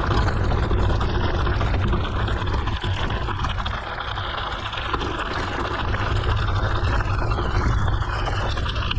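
Mountain bike riding along a forest road: steady tyre rumble and wind buffeting on the bike-mounted microphone, with a continuous hiss.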